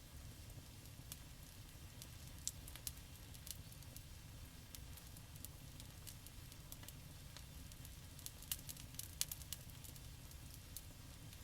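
Wood campfire crackling: scattered sharp pops and snaps over a low steady rumble, with a cluster of louder snaps about three-quarters of the way through.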